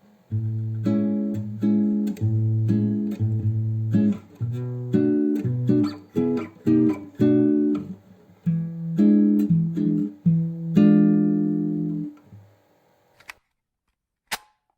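Plucked guitar music: short phrases of single notes and chords with brief pauses between them. It stops about twelve seconds in.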